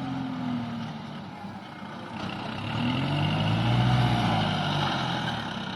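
Diesel dump truck engine running and pulling in, rising in pitch and loudness to a peak about four seconds in, then easing off.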